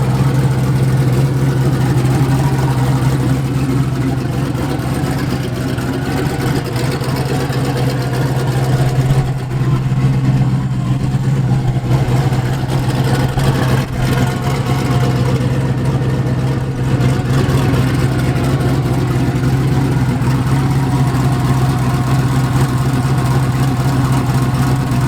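A motor vehicle engine running steadily at a constant speed, with no revving.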